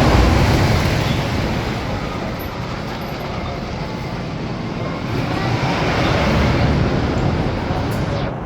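Wooden roller coaster train rumbling along its track. It is loudest right at the start and swells again about six seconds in.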